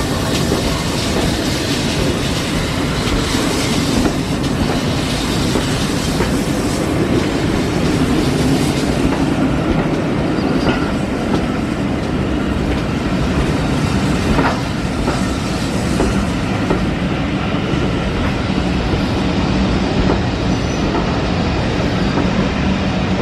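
Passenger coaches of a steam train hauled by GWR Manor-class 4-6-0 No. 7812 rolling past close by: a loud, steady rumble of wheels on the rails.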